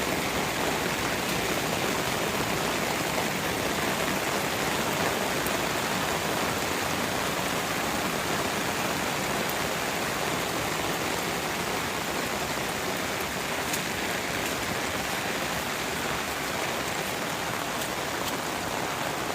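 Rain falling on a flooded backyard lawn, with surface water running across it: a steady rushing hiss with occasional faint ticks of drops.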